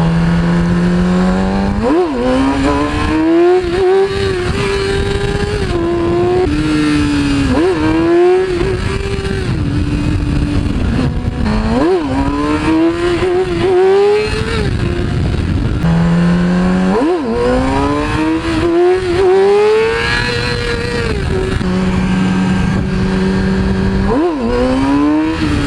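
2008 Yamaha R6's inline-four engine accelerating hard through the gears. The pitch climbs, drops sharply at each shift and climbs again, several times, with stretches held at steady revs in between.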